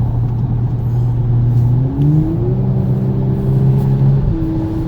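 2019 Audi S5 Sportback's turbocharged V6 running under way, heard inside the cabin with road noise: a steady low drone whose note rises about two seconds in, holds, then drops slightly near the end.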